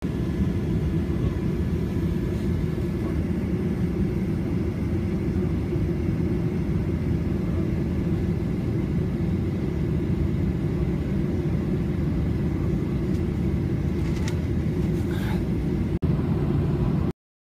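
Steady low rumble of an airliner cabin with the jet engines running, heard from a passenger seat. It drops out for an instant near the end, then cuts off abruptly.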